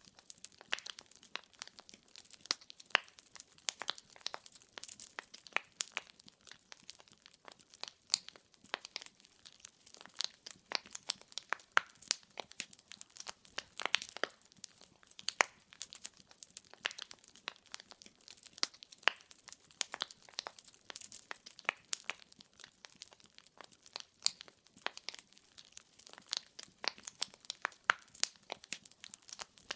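Wood logs burning in a fireplace, crackling with frequent irregular sharp pops and snaps.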